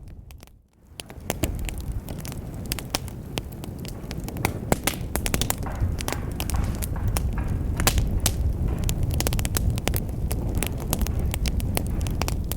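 Wood fire crackling, with frequent sharp irregular pops over a low steady rumble of flames; it fades out briefly about half a second in, then comes back.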